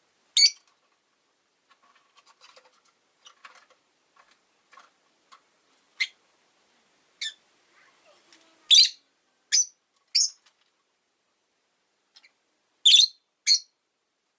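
Rosy-faced lovebirds calling: about eight short, sharp, high-pitched calls spaced irregularly a second or more apart, with softer chattering between the first few.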